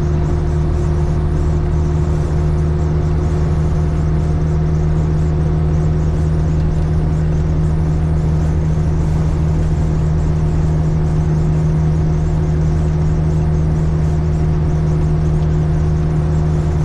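Caterpillar 3406E inline-six diesel in a Freightliner FLD120 semi truck, heard from inside the cab while cruising at a steady highway speed on cruise control. A steady, even drone with a constant hum in it and no change in engine speed.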